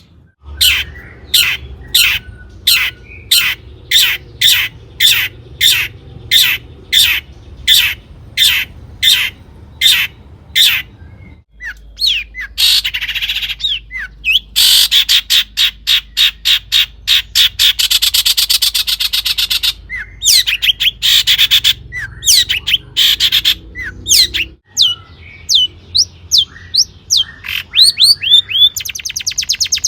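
Long-tailed shrike singing. First comes a steady series of sharp notes about two a second. After an abrupt change near 11 s, a fast chattering run of notes follows, then varied calls and quick trills after another break near 25 s.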